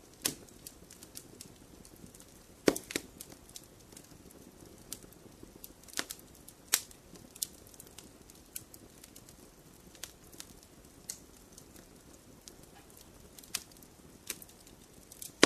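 Wood fire burning in a fireplace: a low steady hiss with irregular sharp crackles and pops from the logs, the loudest pops a few seconds apart.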